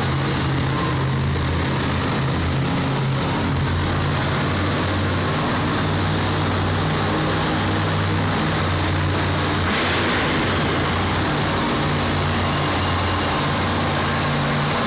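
Monster truck engine running steadily, with a brief sharp noise about ten seconds in.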